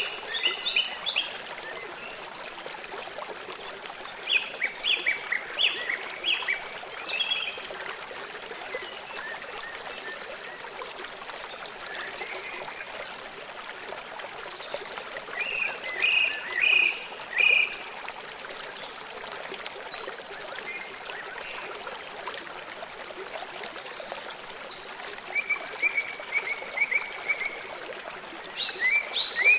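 Stream running steadily, with a small bird singing short phrases of quick chirping notes four or five times over it, one of them a rapid trill.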